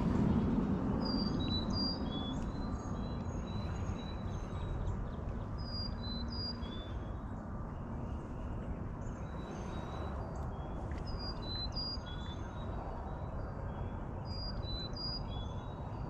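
Songbirds chirping: a short phrase of quick high chirps repeated every four or five seconds, over a steady low background rumble.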